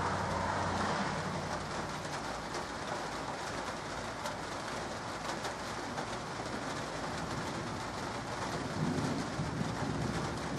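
Steady light rain falling, an even hiss dotted with close drop ticks. A low rumble swells near the end.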